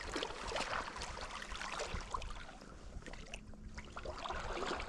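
River water splashing and trickling, with many small irregular splashes over a steady rush of moving water.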